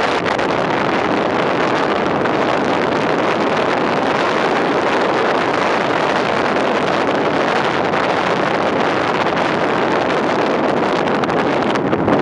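Loud, steady wind noise buffeting the microphone in a moving car.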